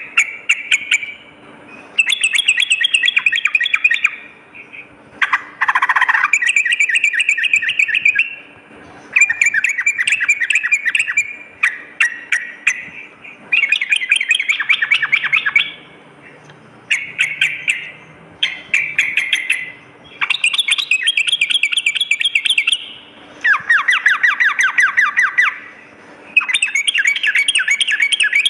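Yellow-vented bulbul (trucukan) singing: a series of loud, rapid bubbling chattering phrases, each one to three seconds long, repeated about a dozen times with short pauses between them.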